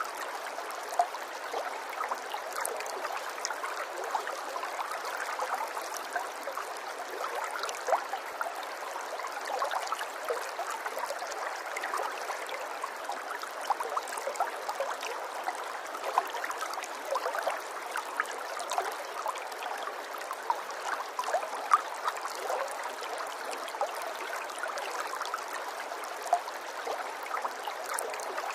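Running water: a small stream trickling and gurgling steadily, with many small splashes and drips.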